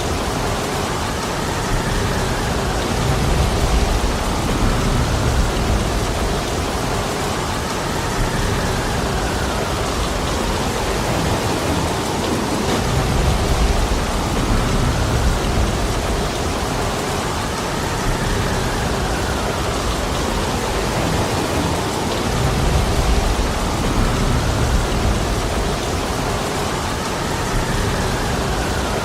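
Heavy rain falling steadily, with low rumbling swells about every four to five seconds.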